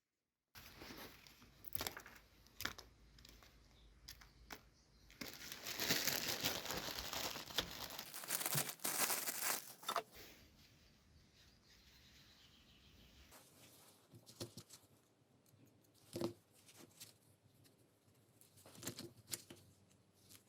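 Bench-work handling noises: scattered clicks and knocks of small parts being moved, with a louder stretch of scraping or rubbing in the middle.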